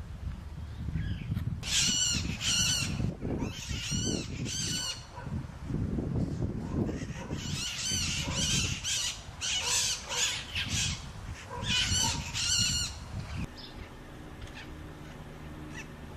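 Feral parrots giving harsh screeching calls in repeated bursts, often in quick pairs, over a low background rumble; the calling stops about three-quarters of the way through.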